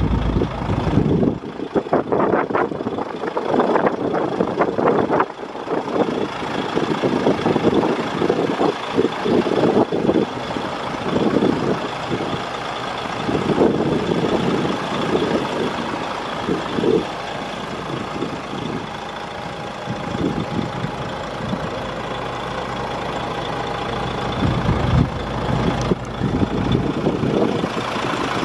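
DAF CF85.460 tractor unit's six-cylinder diesel engine idling, with uneven low rumbles over it.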